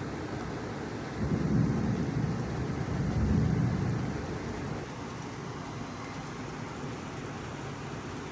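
Thunder rumbling for about three seconds, starting about a second in and swelling twice before fading, over a steady outdoor hiss.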